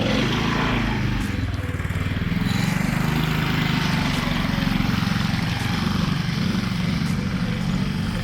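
Go-kart's 420cc Predator single-cylinder engine, its governor removed, running steadily under throttle as the kart drives, with small rises and falls in pitch.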